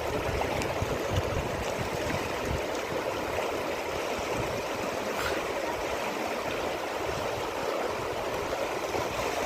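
Steady rush of flowing river water, an even, unbroken noise, with low irregular buffeting from wind on the microphone.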